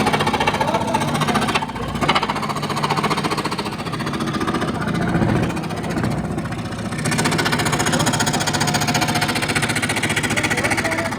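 A woodworking power tool running with a rapid, even chatter over a steady hum, easing off briefly about two seconds in and again around six to seven seconds.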